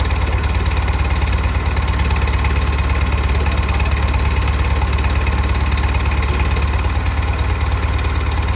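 Massey Ferguson 165 tractor engine running steadily with a strong, even low rumble.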